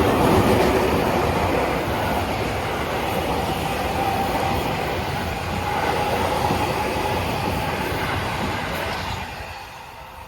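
Seibu 6000 series electric commuter train running past on the rails, a steady noise that dies away near the end as the train moves off.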